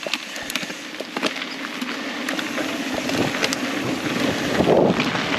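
Mountain bike rolling along a dirt trail: tyres on loose ground with scattered sharp clicks of gravel and bike parts, and wind rushing over the camera microphone, getting louder as the bike picks up speed.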